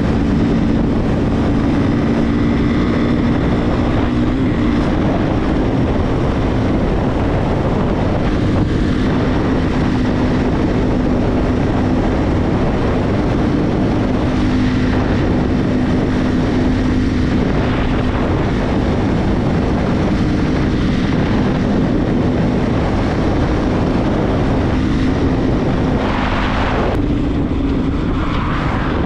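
Regulmoto TE enduro motorcycle's engine running steadily while riding, with a steady hum and road noise, and a brief rush of noise near the end.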